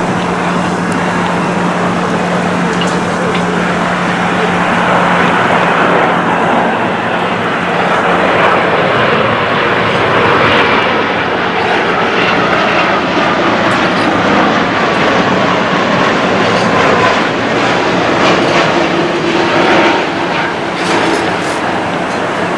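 Jet engines of an EVA Air Boeing 787-10 passing close by: a loud, steady rush of engine noise, with a whine that slowly falls in pitch in the second half as the jet goes past.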